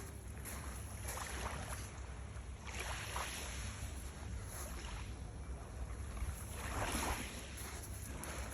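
Small sea waves washing in, rising twice in soft swells, with wind rumbling on the microphone.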